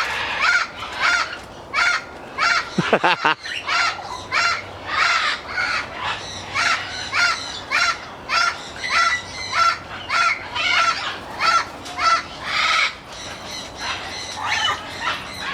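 Goffin's cockatoo giving a long run of short, harsh calls, about two a second, steady throughout.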